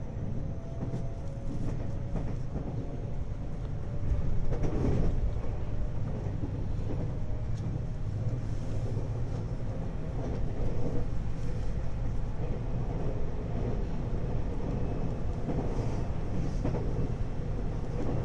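Hapi-Line Fukui 521 series electric multiple unit running between stations, heard inside the passenger car: a steady low rumble of wheels and running gear. Faint motor tones sound in the first few seconds, and the running noise grows louder about four seconds in.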